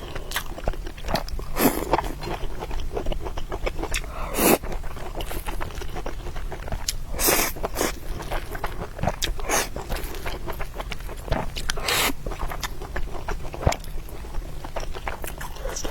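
Close-miked eating: steady mouth sounds of biting and chewing, full of short wet clicks, with a few louder sharp bites about four, seven and twelve seconds in.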